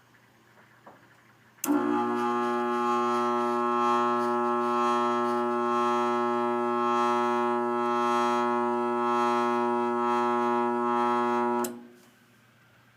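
Furnace motor buzzing: a loud, steady electrical hum that starts suddenly about two seconds in and cuts off abruptly about ten seconds later. The buzz came from a failing motor.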